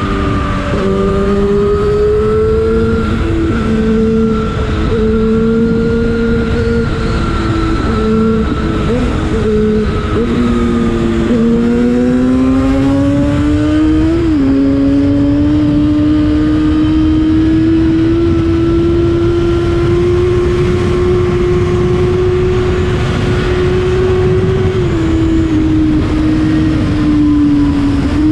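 Yamaha FZ6 inline-four engine through an Akrapovic exhaust under way: it holds fairly steady revs, climbs in pitch about eleven seconds in, drops sharply at a gear change a few seconds later, then cruises at a slowly rising, steady pitch and eases off slightly near the end.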